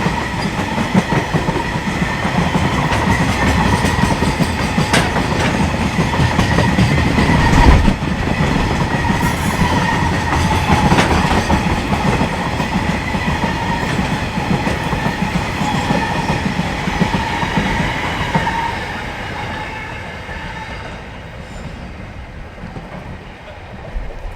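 Freight train wagons rolling past, wheels clattering over the rails with a steady high ringing tone above the rumble. The sound fades away over the last few seconds as the end of the train passes.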